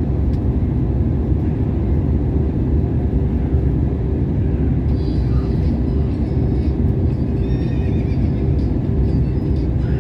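Steady airliner cabin noise: jet engine and airflow sound with a constant low hum, unbroken throughout.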